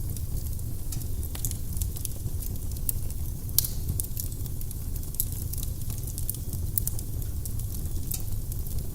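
Firewood burning in a fireplace: a steady low rumble of the flames under irregular sharp crackles and pops, one louder pop about three and a half seconds in.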